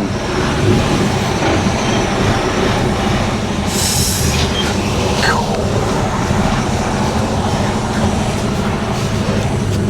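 Lorry's diesel engine running, heard from inside the cab during slow manoeuvring, with a short hiss about four seconds in.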